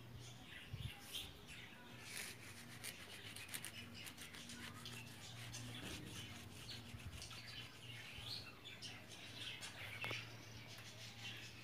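Faint, scattered high chirps of birds, with a run of soft rustling clicks early on and a low steady hum underneath.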